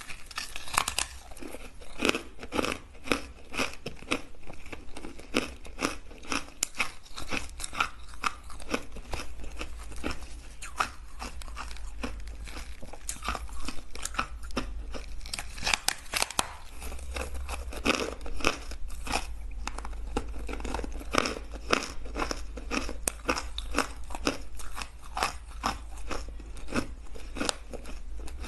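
Ice being bitten and chewed close to the microphone: a rapid, irregular run of sharp crunches and cracks, several a second, with no pause.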